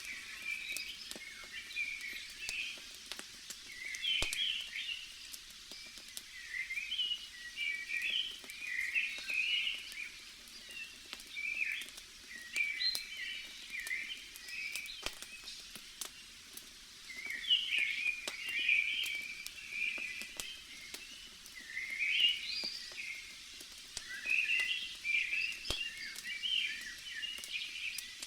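Forest ambience: small birds chirping in short bursts of quick twittering calls, over scattered sharp crackles of a burning campfire.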